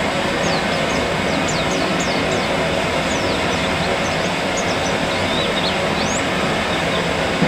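Many short, thin, high chirps from white-eyes (pleci), each falling quickly in pitch, scattered over a steady, loud rushing noise.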